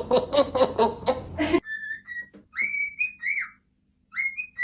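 A fast, evenly pulsed cackle, about six pulses a second, cut off abruptly about one and a half seconds in, then a parrot whistling a few short, clear notes, some sliding up at the start.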